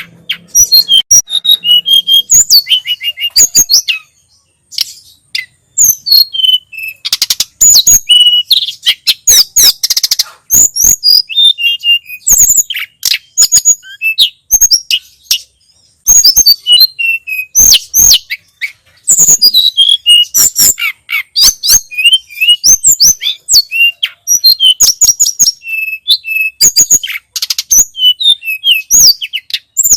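Tledekan gunung (sulingan gunung) songbird singing a fast, continuous run of high chirps, trills and short whistles, with brief pauses about four and sixteen seconds in.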